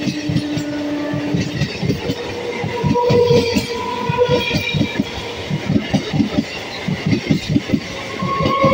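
MEMU electric multiple-unit train passing close by, its wheels clattering over the rail joints in quick uneven groups of clicks and knocks.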